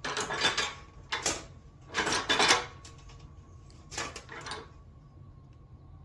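Thin HVAC sheet metal being bent, clanking and rattling in four short bursts.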